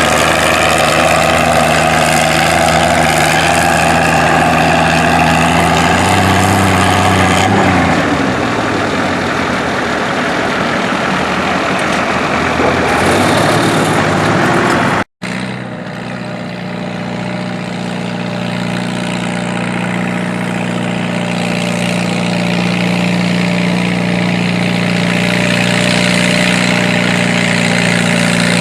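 Antique tractor engine running loud and steady. Its note drops about a fifth of the way in. The sound cuts off abruptly about halfway through, and an engine then runs steadily again.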